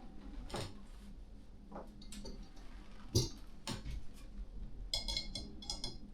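Cookware and utensils being handled: scattered light knocks and clicks, then a quick run of sharp, ringing metallic clinks about five seconds in.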